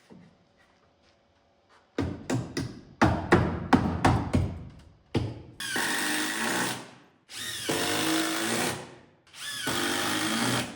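A power drill running in three bursts of about a second and a half each, each spinning up with a rising whine, as if driving screws into wood. Before them, a quick run of knocks and clatter.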